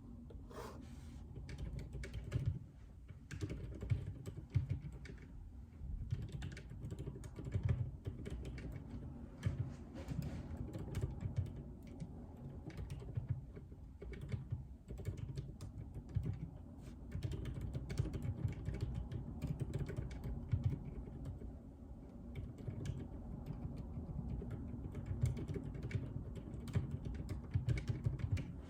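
Typing on a JJK84 mechanical keyboard with Outemu Silent Peach linear switches: soft, muted keystrokes in irregular runs with brief pauses.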